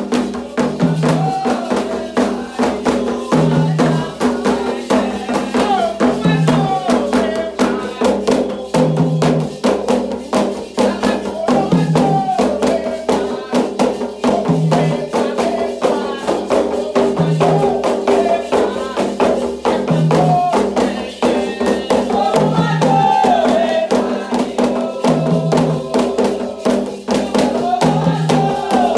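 Candomblé ritual music: a toque for Ogum, with hand drums and shakers or bells keeping a dense, steady rhythm. A deep drum stroke recurs about every two to three seconds, under group singing.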